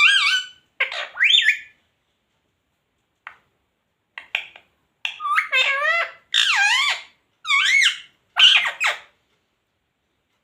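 Indian ringneck parrot vocalizing in a string of about seven short, high-pitched calls with rising and falling pitch, in the way it chatters and mimics words.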